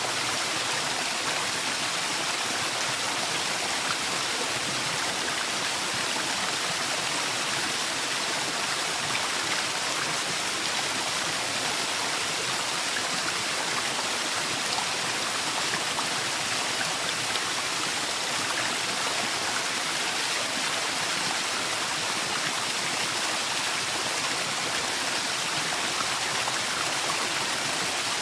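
Waterfall in a forest: water falling and rushing in a steady, even roar of white-noise-like sound.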